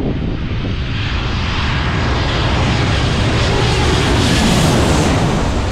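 Airliner engines passing close by, the noise building to a peak near the end.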